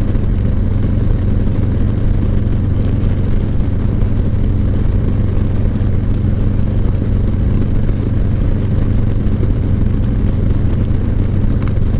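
Steady drone of a moving road vehicle: engine and road noise with an even low hum that holds its pitch throughout.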